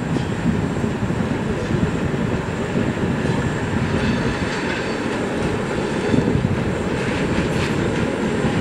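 ChS7 electric locomotive hauling a passenger train at low speed: a steady rumble of the locomotive and coach wheels rolling over the rails.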